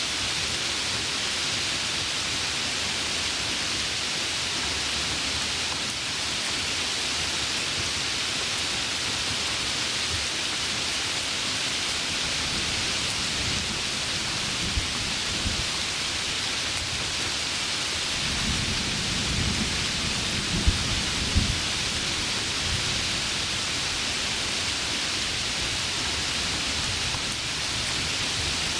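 Heavy rain falling steadily as an even hiss, with thunder rumbling low in the middle and a louder rolling rumble with a few sharp cracks from about 18 to 22 seconds in.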